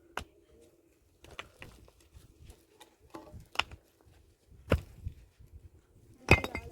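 Sharp knocks, about five of them, irregularly spaced, the loudest near the end.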